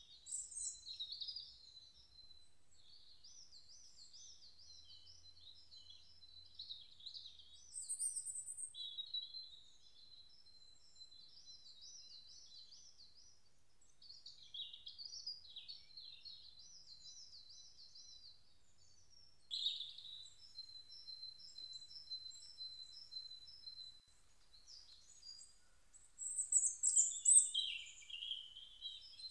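Several birds singing: high trills and quick repeated chirping phrases one after another, with a louder burst of song near the end.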